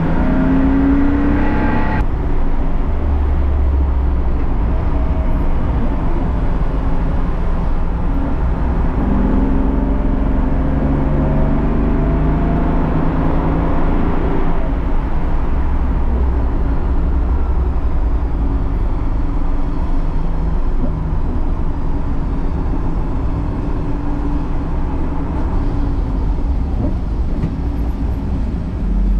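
BMW race car's engine pulling hard, its pitch climbing and breaking off several times as it shifts gears, over a steady rumble of road and wind noise.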